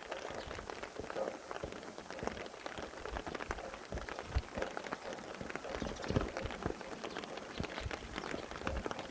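Rain falling steadily, with many individual drops landing close by as dense, irregular ticks.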